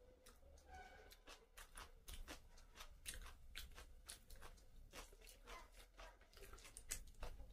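A person chewing a mouthful of chicken and rice close to the microphone: faint, irregular crunching and wet smacking clicks.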